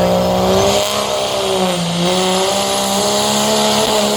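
Modified diesel pulling truck's engine running hard at high revs under load, dragging the weight-transfer sled. Its pitch dips briefly about a second and a half in, then holds steady. A thin high whine climbs during the first second.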